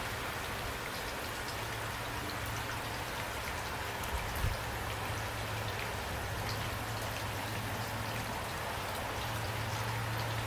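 Steady rain falling, with individual raindrops ticking through an even hiss. There is a brief low thump about four and a half seconds in.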